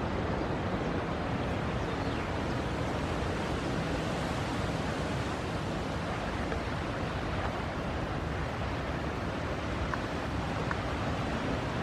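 Strong force-6 wind buffeting the microphone over choppy water, a steady rushing noise.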